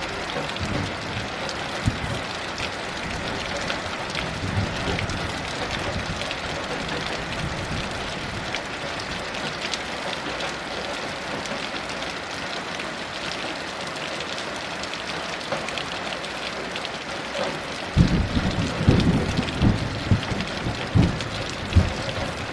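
Heavy rain falling steadily. A low rumble of thunder starts suddenly near the end.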